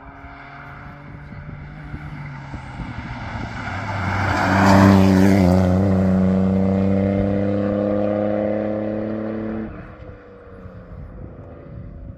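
A rally car passing at speed on a special stage. The engine note builds as it approaches, is loudest about five seconds in with a falling pitch sweep as it goes by, then holds a steady note moving away before dropping off sharply near the end.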